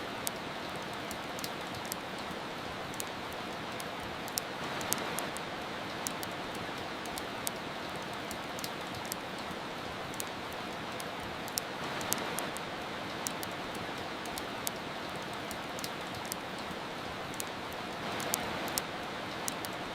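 Steady rain hiss mixed with a fireplace's frequent sharp crackles and pops. The rain swells briefly three times.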